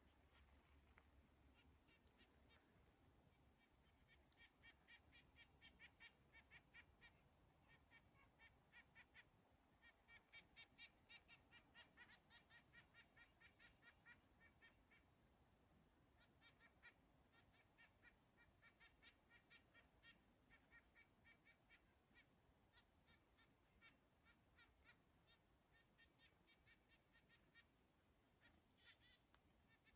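Faint birds calling: runs of rapid, evenly repeated notes lasting several seconds each, with scattered short, thin, high chirps.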